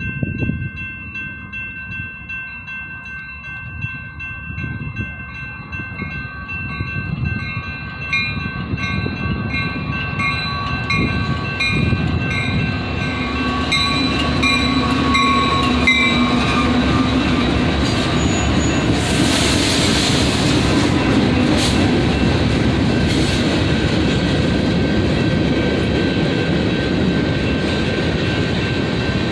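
A Union Pacific diesel freight train approaching and passing. In the first half there are steady chord-like tones that pulse evenly, from a horn and a crossing signal. The rumble of the locomotives and freight cars builds to its loudest about halfway through, then goes on as the cars roll by, with clattering and screeching bursts for a few seconds.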